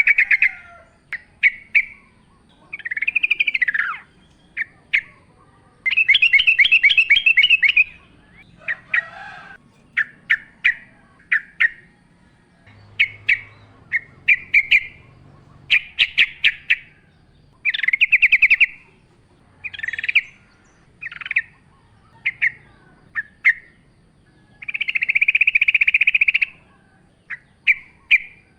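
Yellow-vented bulbul song: bursts of short, clear chirps around 2–3 kHz, broken up by several longer rapid trilling phrases lasting a second or two each.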